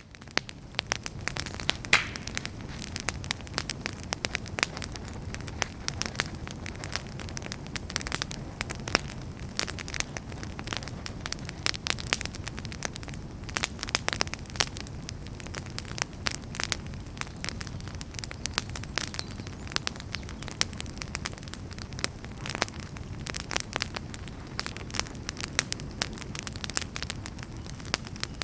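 Burning firewood crackling, with many irregular sharp pops over a steady low rush of the flames.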